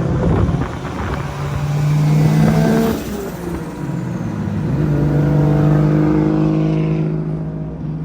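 A car engine accelerating hard: its pitch climbs, drops sharply at a gear change about three seconds in, then climbs again through the next gear, with a rising whine on top near the end.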